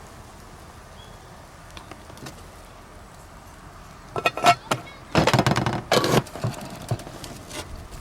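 Light scattered knocks, then about four seconds in, two bursts of clattering and rattling, as of camp gear or cookware being handled.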